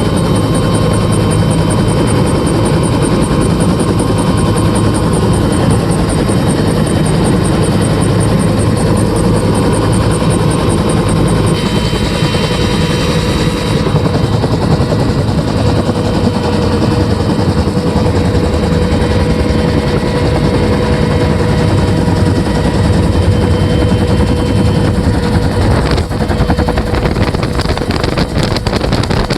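Bell UH-1 Huey helicopter with a two-blade main rotor, running loud and steady from close by on board, with the steady whine of its turbine engine over the rumble and beat of the rotor.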